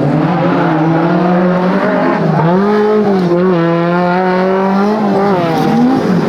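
Off-road 4x4's engine running hard at high revs, its pitch holding steady and then rising and dipping as the throttle is worked.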